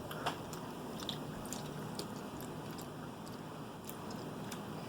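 Someone chewing a soft gummy candy, with irregular wet mouth clicks, a few a second.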